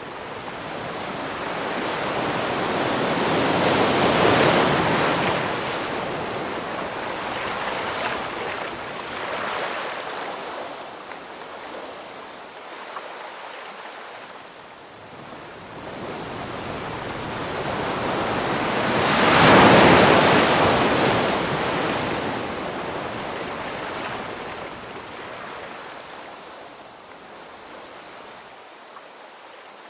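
Ocean waves breaking on a shore, with two large waves swelling to a peak about four seconds and twenty seconds in, each fading slowly afterwards.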